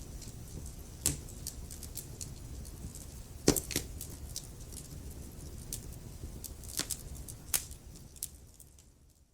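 Wood fire burning in a fireplace: a steady low rumble with scattered sharp crackles and pops, the loudest snaps about a second in and halfway through. The sound fades away near the end.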